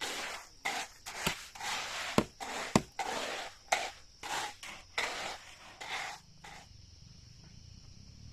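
Rhythmic scraping strokes on wood, about two a second, with three sharp knocks among them; the strokes stop about six and a half seconds in.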